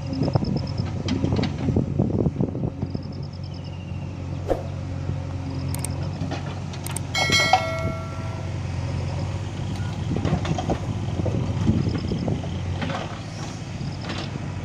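Diesel engines of a JCB 3DX backhoe loader and a New Holland 3600-2 tractor running steadily during loading, with scattered knocks and a ringing metallic clang about seven seconds in.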